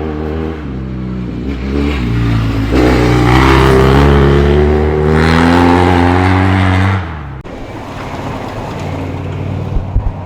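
Rally car engine revving hard under acceleration, its pitch climbing, dropping at an upshift about four and a half seconds in, then climbing again. The loud engine note cuts off sharply about seven seconds in, leaving a lower steady engine drone.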